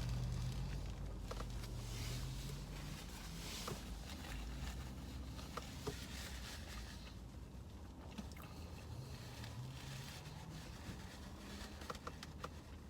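A person chewing food, with small clicks and soft rustles of handled paper wrapping, over a low steady hum.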